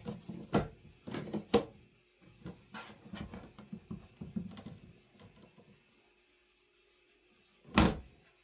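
Household handling sounds in a small room: a run of clicks and knocks for the first few seconds, then one louder knock near the end.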